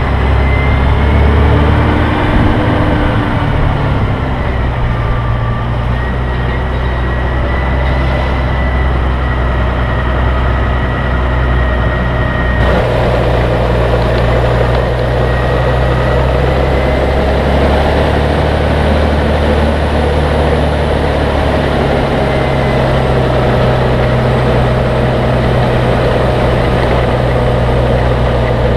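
An engine running steadily: a continuous low drone with a faint high steady tone above it.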